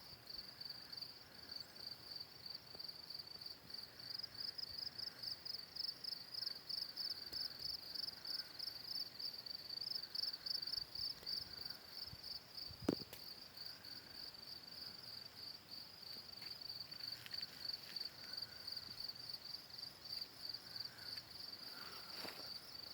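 Crickets chirping at night: a steady, high-pitched, evenly pulsing chirr. A single sharp click about halfway through.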